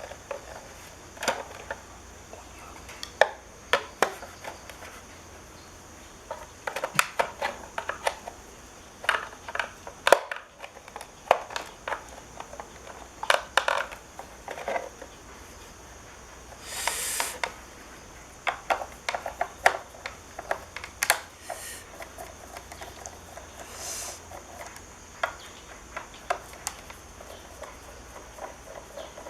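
Irregular clicks, knocks and clatter of small hard parts and tools being handled. There are two brief rasps, one about halfway through and one a few seconds later.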